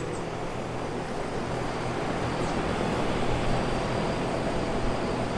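Carrier Infinity 24ANB7 two-stage outdoor air-conditioner unit running: a steady rush of air from the condenser fan over a low hum from the Copeland scroll compressor.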